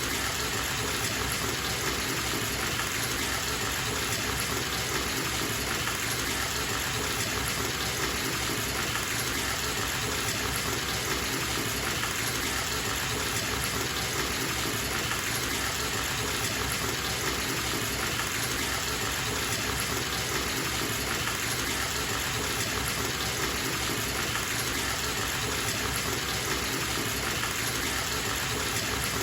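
Bathtub tap running at a steady full flow, the water gushing into the tub.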